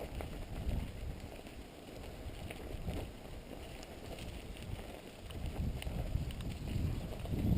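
Giant XTC 3 mountain bike rolling over a dirt trail, with wind buffeting the microphone in uneven gusts and small scattered clicks and rattles from the bike.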